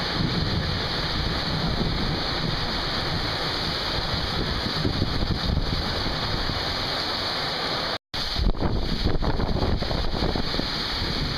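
Heavy rain pouring down in a thunderstorm, a steady dense hiss, with strong wind gusting on the microphone. The sound cuts out for an instant about eight seconds in and comes back a little louder and rougher.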